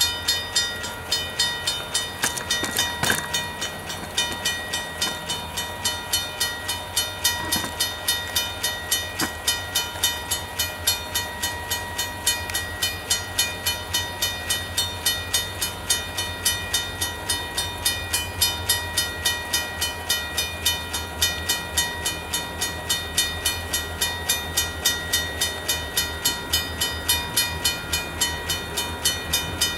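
Grade-crossing bell ringing in steady, even strokes while a freight train rolls through the crossing, its low rumble underneath.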